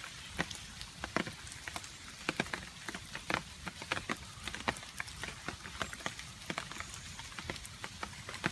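Rain falling, a steady hiss with water drops dripping and plinking irregularly on top, several per second.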